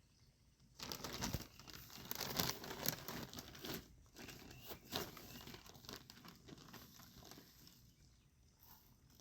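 Crinkling, crackling rustle of the bird of paradise plant, its pot and potting soil being handled during repotting. It starts about a second in, is loudest over the next few seconds, then goes on more faintly.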